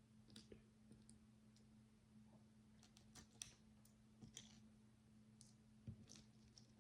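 Faint, irregular clicks and taps of plastic micro bricks being handled and pressed together, over a faint steady low hum.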